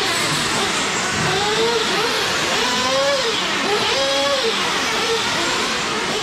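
Several nitro-fuelled RC truck engines revving as the trucks lap the track, their pitches rising and falling in overlapping arcs every second or so.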